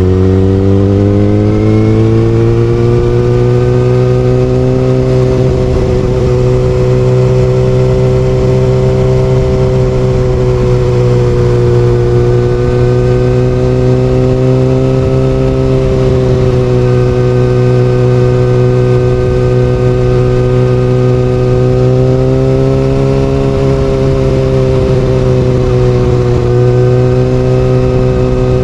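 Kawasaki Ninja ZX-6R inline-four through an Austin Racing exhaust, engine pitch rising over the first few seconds, then holding at steady revs with small rises and dips, as when cruising.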